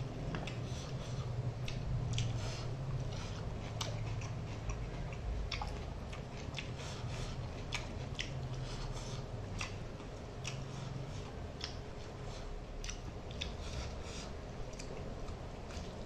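Close-up eating sounds: chewing and lip-smacking of a mouthful of rice and fish curry, with many short wet mouth clicks scattered throughout, over a low steady hum.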